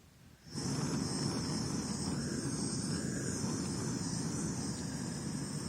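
Handheld heat gun blowing steadily, switched on about half a second in and cut off abruptly at the end, with an even rush of air and a high fan hiss.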